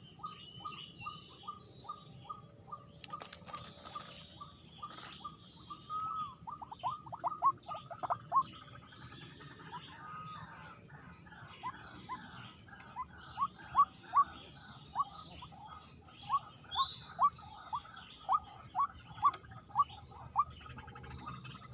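A bird repeating a short, sweeping call note over and over, at about two notes a second, growing louder in runs near the middle and toward the end.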